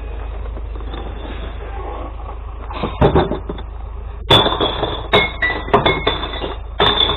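Glass bottles and jars clattering and smashing as they are emptied into a glass-recycling collection truck, with the truck's engine idling underneath. A few knocks come about three seconds in, then a dense run of clinking and breaking glass with a ringing tone.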